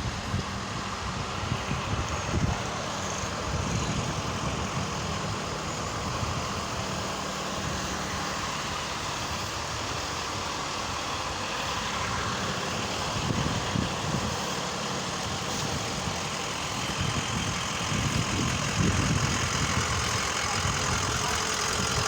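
A motor vehicle's engine running steadily at low speed, with a low hum over a continuous hiss and a few brief low surges.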